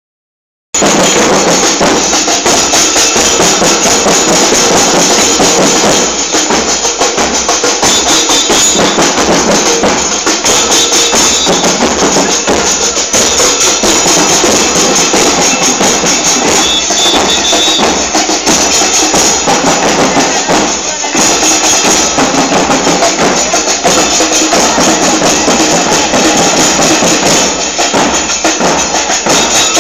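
Murga percussion: bombos con platillo (bass drums with cymbals mounted on top) playing a loud, driving rhythm, the cymbals clashing continuously. It starts abruptly just under a second in.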